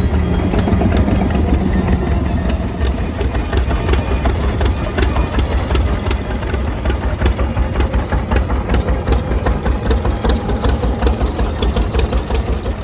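Vintage tractor engine running at a steady pace, its firing pulses coming fast and even.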